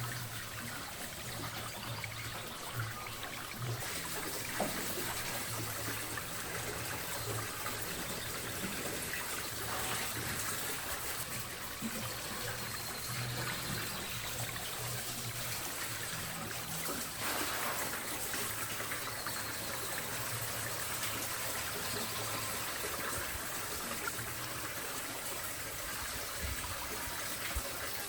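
Water running in a steady trickle, with a few faint knocks.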